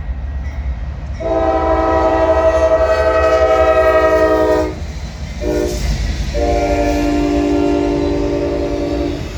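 Diesel freight locomotive's multi-chime air horn: a long blast, a short toot and another long blast, the close of the standard grade-crossing horn signal, over a low rumble.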